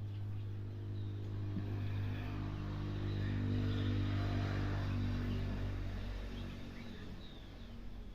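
A motor vehicle's engine passing by, its steady hum growing louder toward the middle and fading again, with faint bird chirps.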